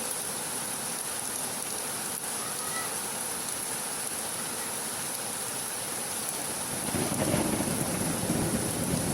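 Steady hiss of heavy rain. About seven seconds in, a low rumble of thunder rises under it and the sound grows louder.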